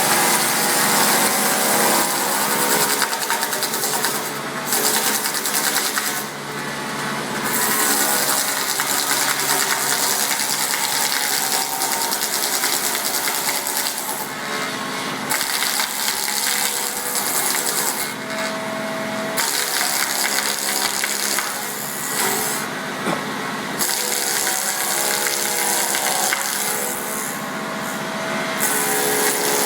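Electric log-rounding machine's rotating cutter head milling a log, a steady motor whine under a loud hiss of cutting wood. The hiss dips briefly every few seconds.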